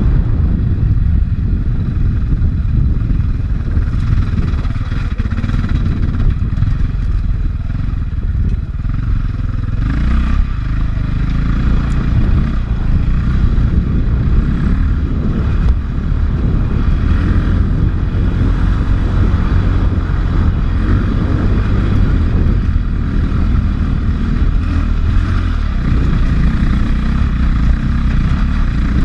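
450 cc four-stroke dirt bike engine running continuously with rising and falling revs as the bike is ridden on a trail, picked up by a helmet-mounted camera.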